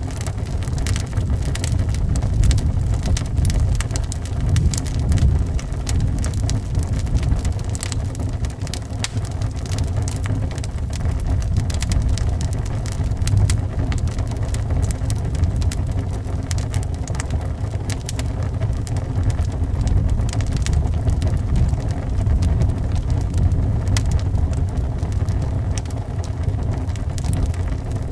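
Wood fire crackling, with many small pops and snaps scattered throughout, over a steady low rumble of wind.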